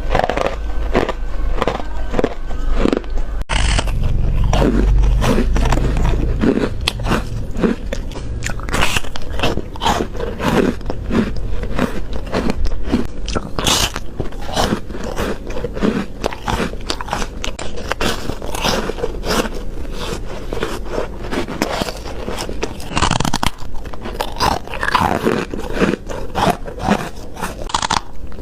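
Close-miked biting and chewing of ice: a fast series of crisp crunches as the ice breaks between the teeth. A low rumble runs under the first few seconds and stops about six seconds in.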